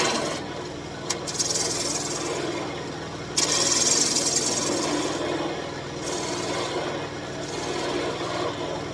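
Wood lathe running with a turning tool cutting a spinning birch branch: a steady motor hum under a scraping, hissing cut that comes and goes, loudest from about three and a half seconds in.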